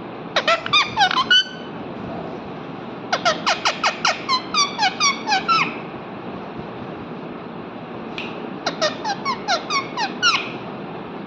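A parrot giving three bursts of rapid, repeated sharp chirps, about five notes a second, over a steady background hiss.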